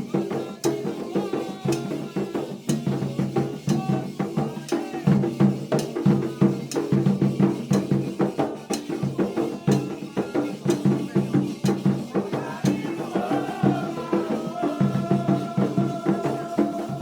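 Candomblé ritual percussion: drums and shaker rattles playing a fast, steady rhythm. Voices singing come in over the drumming in the last few seconds.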